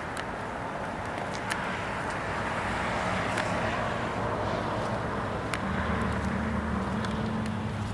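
Motor vehicle traffic going by: steady engine and tyre noise that slowly grows louder, with a low engine hum coming up more strongly past the middle, and a few small ticks.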